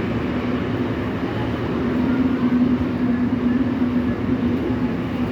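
Seoul Subway Line 6 train running, heard inside the car: a steady rumble with a level low hum.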